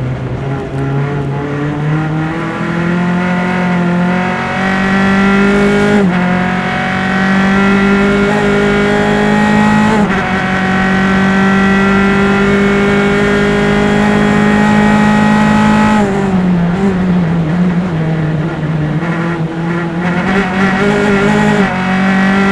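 Single-seater formula race car's engine at racing speed, pitch climbing through the gears with upshifts about 6 and 10 seconds in and a long pull in top gear. About two-thirds of the way through it drops off under braking with a run of downshifts, then picks up again near the end.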